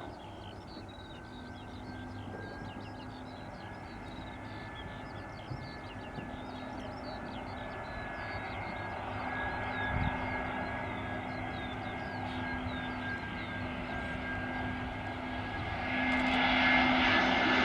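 Jet airliner on final approach, its engines whining and growing steadily louder as it closes in, loudest near the end. Birds chirp faintly during the first half.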